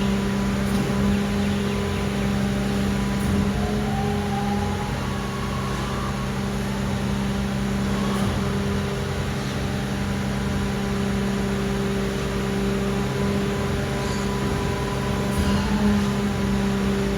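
The diesel engine of a Mercedes-Benz Arocs garbage truck runs at a steady held speed: a constant hum of unchanging pitch, with a few faint clicks.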